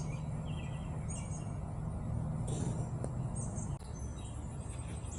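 Small birds chirping now and then in short high calls over a steady low hum, which drops off suddenly a little over halfway through.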